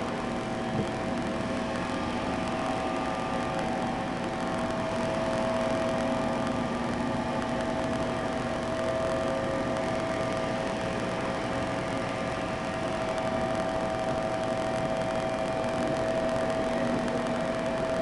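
Hankook VTC-85R CNC vertical turning center running a live-milling operation: a steady machine whine with several held tones over an even hiss.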